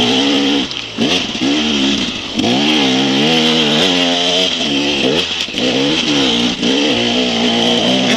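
KTM enduro motorcycle engine, heard close up from the bike, revving hard under acceleration. The pitch climbs, then drops sharply with each gear change or throttle lift, about four times. A steady high hiss runs under it.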